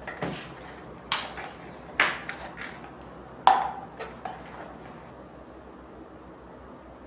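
Dishes or kitchen utensils clinking and knocking as they are handled: about eight sharp clinks with a short ring, the loudest about three and a half seconds in, then only a low steady hum.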